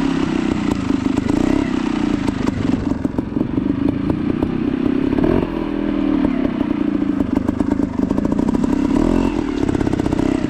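Two-stroke Beta 200 trials motorcycle engine running at low revs, its pitch wavering with small throttle changes, with a brief dip about halfway through and again near the end.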